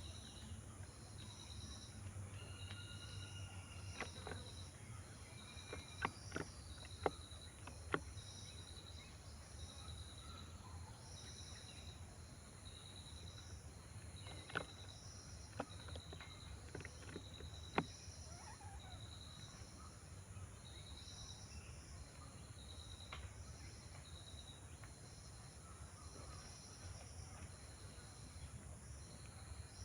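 Insects chirping in a steady rhythm, about one high chirp a second, over a low outdoor hum, with a few short bird calls early on. A handful of sharp clicks fall in the first half.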